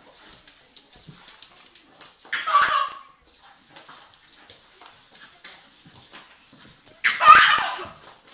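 Two short, loud animal cries about four and a half seconds apart, each under a second long, the second one louder, with only faint scuffling between them.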